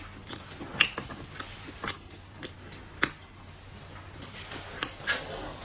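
Dry clay being crunched and snapped in the hands for ASMR, making a few separate sharp cracks about a second apart.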